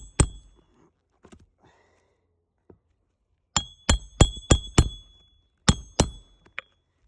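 Hammer driving roofing nails through an asphalt shingle, each blow ringing sharply off the nail head. One blow at the start, then a quick run of five about three a second, then two more and a couple of lighter taps near the end.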